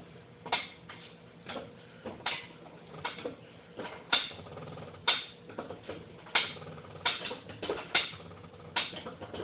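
Car jack being pumped to lift the car by its lower control arm: a series of sharp clicks and clanks, one or two a second, unevenly spaced.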